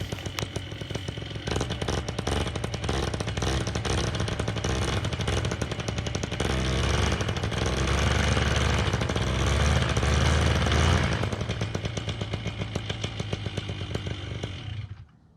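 Paramotor's two-stroke engine running with a rapid firing pulse. It gets louder between about six and eleven seconds in, eases back, then cuts off shortly before the end.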